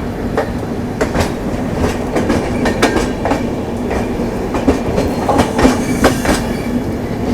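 Passenger train running on the track: a steady rumble with the clickety-clack of wheels passing over rail joints, several sharp clicks each second.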